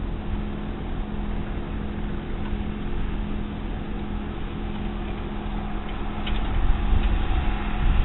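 Steady drone of a light propeller plane's piston engine running at a distance, with low wind rumble on the microphone that grows louder about two-thirds of the way through.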